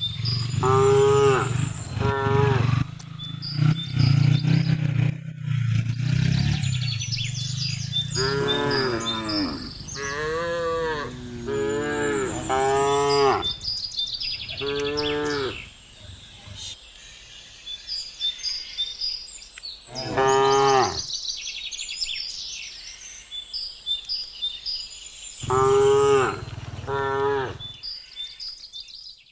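Cattle mooing: about ten short calls that rise and fall in pitch, coming in clusters with pauses between. Small birds chirp throughout, and a low rumble runs under the first few seconds.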